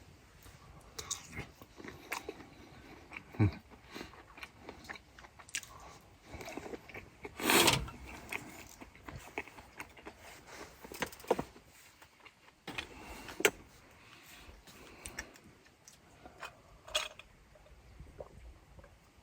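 A person chewing and biting food, with scattered short clicks and one louder noise about seven and a half seconds in.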